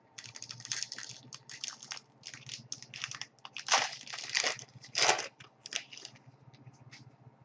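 Foil wrapper of a hockey card pack crinkling and tearing as it is opened, with the cards inside rustling in the hands. The irregular rustles are loudest in the middle and die away near the end.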